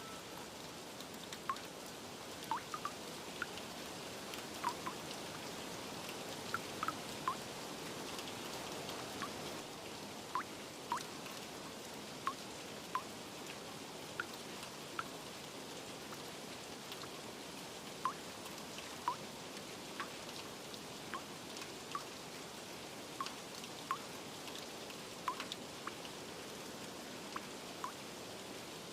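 Steady rain hiss with single drops plinking irregularly, about one every second or two.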